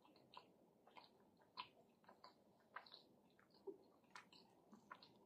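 Faint close-up chewing: soft, irregular wet mouth clicks and smacks of a person eating.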